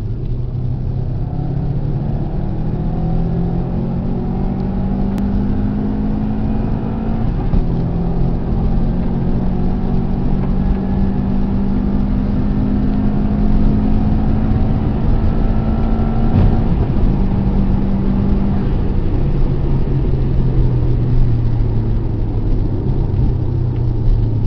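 Car engine running hard at speed, its pitch climbing slowly and dropping sharply about two-thirds of the way through, over a heavy low rumble.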